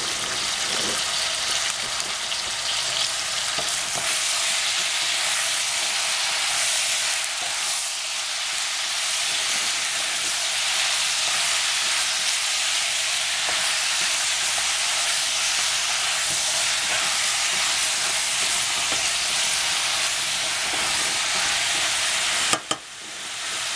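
Sliced squash and zucchini sizzling steadily in a stainless steel saucepan on a gas stove, stirred with a wooden spatula. Near the end there is a single sharp click and the sizzle briefly drops away before returning.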